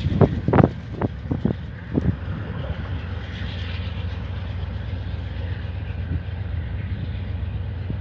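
A VIA Rail passenger train hauled by P42DC diesel locomotives pulls away into the distance: a few sharp clacks in the first two seconds, then a steady low rumble.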